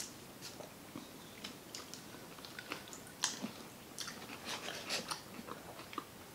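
Close-miked biting and chewing of pizza: faint wet mouth clicks and smacks, with a louder smack a little after the middle.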